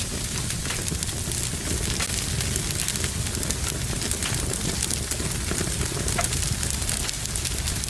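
Fire burning in a fireplace: a steady low rumble with frequent small crackles and pops, one pop a little sharper about six seconds in.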